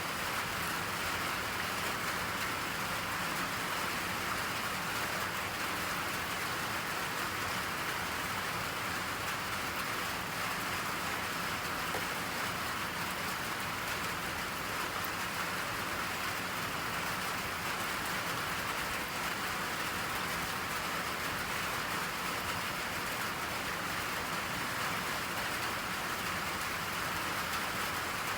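Steady rain falling, an even hiss that does not change throughout, with no thunder.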